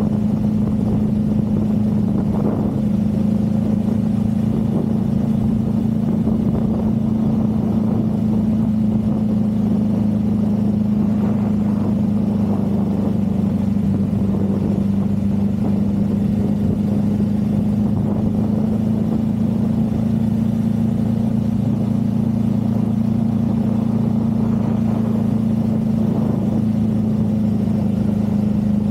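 Motorcycle engine running at a steady pace, its low note holding an even pitch throughout, with road and wind rumble beneath it.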